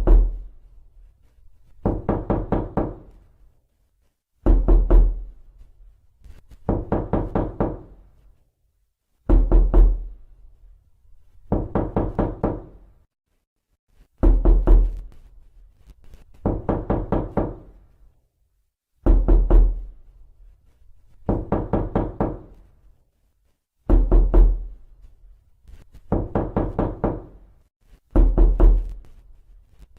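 Knocking on a door in quick clusters of several knocks each, one cluster about every two and a half seconds, heavier deep-thudding clusters alternating with lighter ones in a steady repeating pattern.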